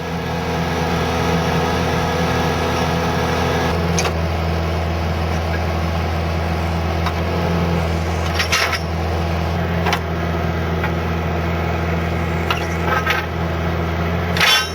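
A horizontal directional drilling rig running steadily under load, with several sharp metallic clanks from the rig, about five of them, spread through the drone.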